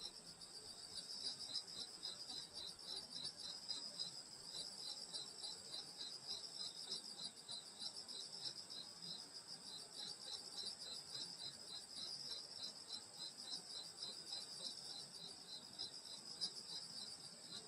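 Chorus of crickets and other grass insects on a summer night: steady high trilling, with one insect chirping in an even pulse about three times a second.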